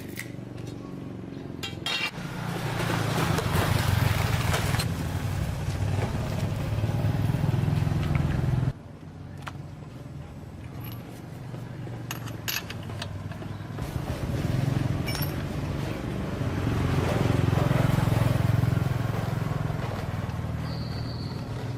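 A motor-driven machine running loudly with a steady low hum, cutting off suddenly about nine seconds in, then starting again and building up through the second half.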